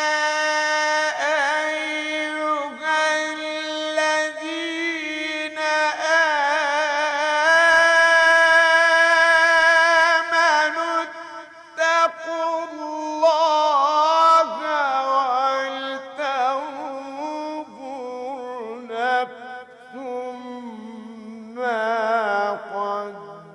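A male reciter chanting the Quran in the slow, melodic mujawwad style. He holds long notes with wavering ornamented pitch and melismatic runs, then moves into shorter phrases.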